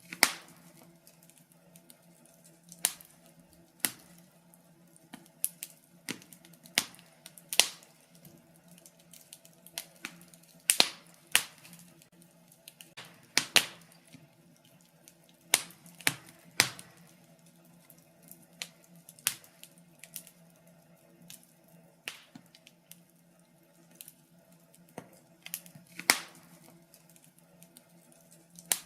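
Wood fire crackling in a fireplace, with irregular sharp pops and snaps a few seconds apart over a faint steady low hum.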